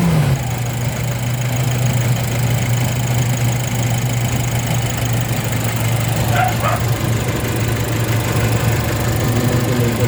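Nissan NV350 van engine dropping back from raised revs in the first moment, then idling steadily; it is running smoothly now that its no-start fault is fixed. A dog barks briefly about six seconds in.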